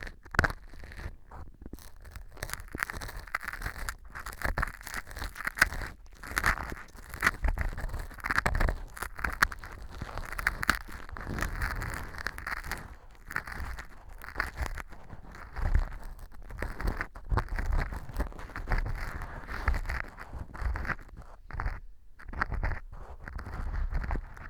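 Ear-cleaning tool scraping and crunching dried wheat gluten (fu) glued like hardened earwax inside a transparent ear model, picked up very close: a dense, irregular run of small crackles and scratches with dull low rubbing underneath.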